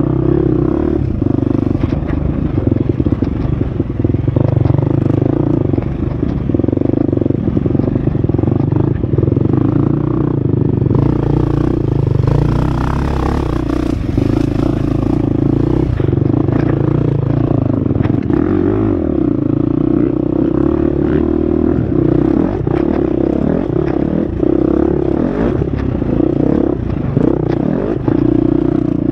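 Husqvarna FX 350 four-stroke single-cylinder dirt bike engine running under load on a rough trail, with knocks and rattles from the bike over the ground. A stretch of hiss joins it around the middle.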